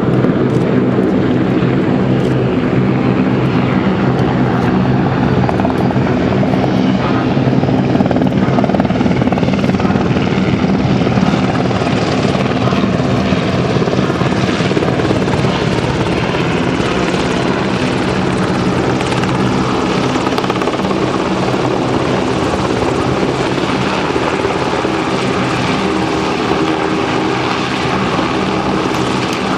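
UH-60J Black Hawk rescue helicopter in flight during a display: the steady beat of the main rotor over the whine of its twin turboshaft engines, holding level throughout.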